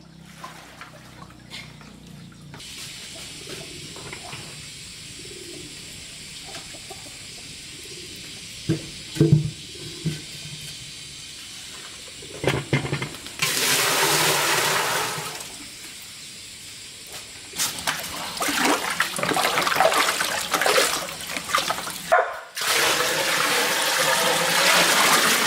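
Water rushing and splashing in three loud spells, with a few soft knocks between them.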